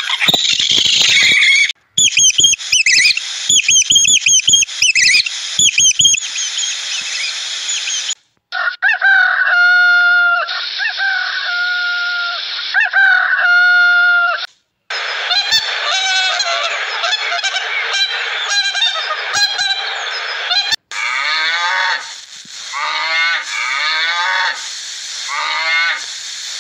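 A run of short animal-sound clips, cut one after another: quick high squeaky calls, then fowl calls with long held honk-like notes, then more rapid, falling animal calls.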